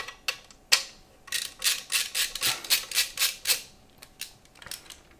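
Clicks and clattering of PC case parts being handled and fitted, with a quick run of rattling in the middle.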